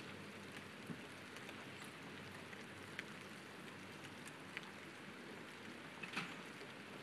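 Steady light rain falling, with a few louder drips ticking close by, the loudest near the end.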